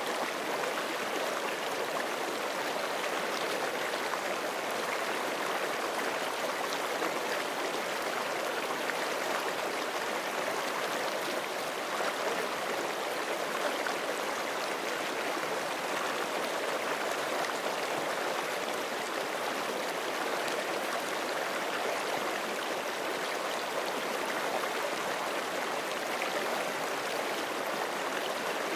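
A forest creek flowing over rocks: a steady, even rush of running water with no breaks.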